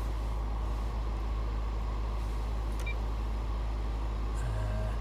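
Range Rover 3.6 TdV8 diesel engine idling, heard from inside the cabin as a steady low hum. A single short high beep sounds about three seconds in, and a brief pitched tone near the end.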